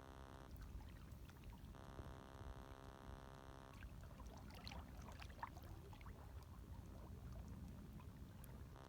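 Faint, gentle lapping of small waves, with irregular little splashes and trickles about half a second in and again from about four seconds until near the end, over a steady low rumble.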